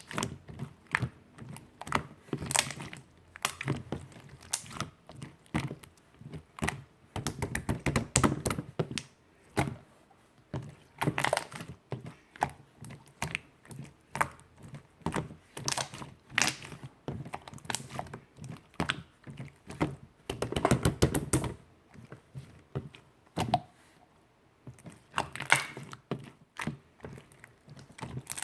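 Pink clear slime being pressed and worked, making a run of sharp clicks and small pops like tapping, with two longer, thicker squelching stretches around eight seconds in and again about twenty-one seconds in.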